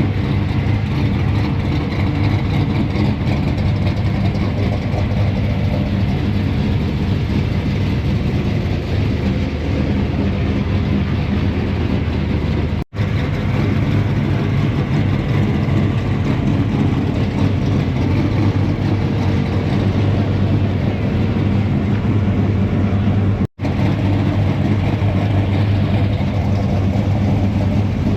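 Car engines running with a steady low rumble. The sound cuts out abruptly twice, about thirteen seconds in and again near twenty-three and a half seconds.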